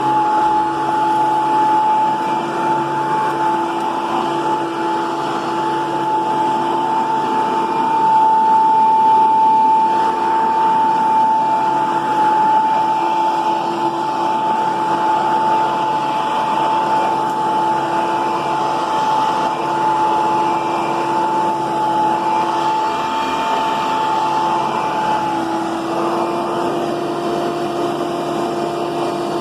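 Hoover Power Max II upright vacuum cleaner running steadily with a continuous motor whine. The pitch of the whine shifts slightly near the end.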